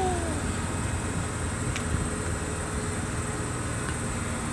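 Steady low rumble of an engine running, with a single faint click about two seconds in.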